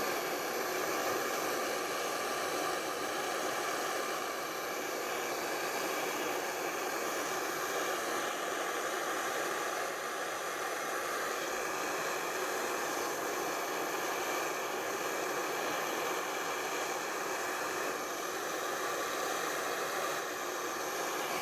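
Blow lamp flame hissing steadily as it heats a cracked exhaust joint for a silver-solder repair.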